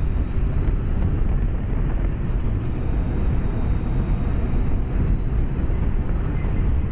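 Steady low rush of wind and road noise from a BMW K1200S motorcycle ridden at speed, heard through a microphone inside the rider's helmet.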